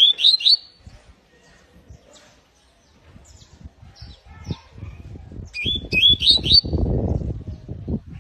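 Canary chirping: two short bursts of quick rising notes, one at the start and one about six seconds in. A low rumbling noise comes up around the second burst and runs to the end.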